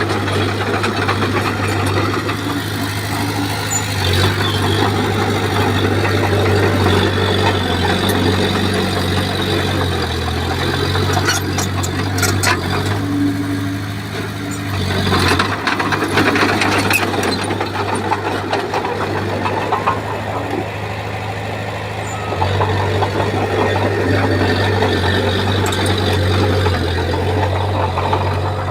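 Bulldozer's diesel engine working under changing load, its hum shifting in pitch and level, with bursts of metallic clanks and rattles around the middle.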